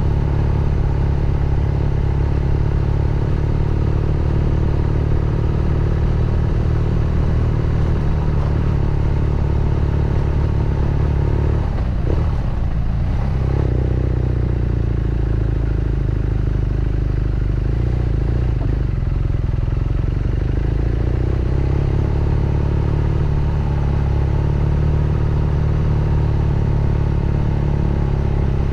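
BMW R nineT Scrambler's boxer twin running steadily under way, with a short break and change in the engine note about twelve seconds in.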